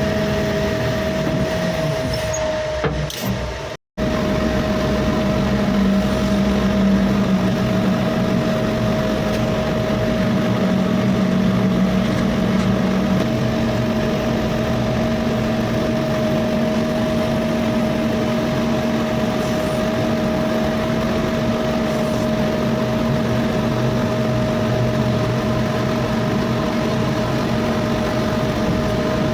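Diesel engine of a heavy construction machine running steadily, with a constant whine over the rumble. The sound drops out for a moment about four seconds in, then resumes unchanged.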